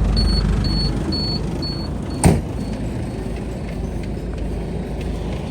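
A truck engine idles with a steady low rumble. A high electronic chime beeps about twice a second and fades out a little under two seconds in. A single sharp knock, the loudest sound, follows shortly after.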